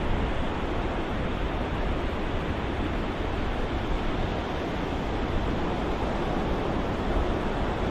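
Ocean surf as a steady white-noise soundscape: an even, continuous rush of waves with no distinct breaks or swells.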